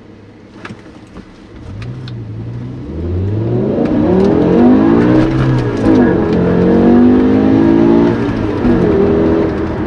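BMW M5 E60's 5.0-litre V10 at full throttle in a manual six-speed. A few light clicks come first. Then the revs climb hard, drop at a gear change about five seconds in, climb again toward the 8250 rpm limit, and fall away near the end.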